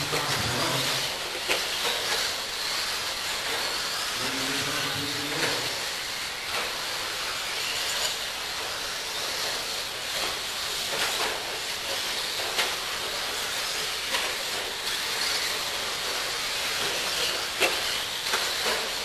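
Electric 1/10-scale RC stadium trucks racing: a steady high whine and hiss of motors and tyres, with scattered sharp clacks as trucks land jumps or hit each other. A voice is heard briefly about four seconds in.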